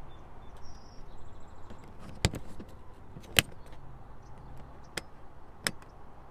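Four sharp clicks at uneven intervals, the second one the loudest, over a low steady hum.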